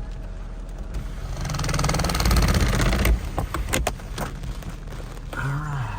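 Fiat 500C's electric fabric roof motor whirring as the soft top slides open, swelling about a second and a half in and stopping near three seconds, followed by a few sharp clicks as the top latches in place. A steady low engine idle runs underneath.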